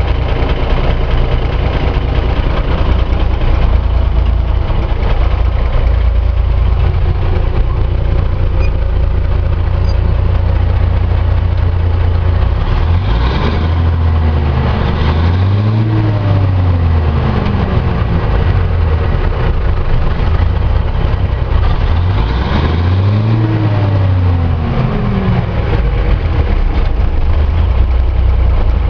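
Cummins NHC250 inline-six diesel idling, revved up and let back down twice, each rev rising and falling over about three seconds.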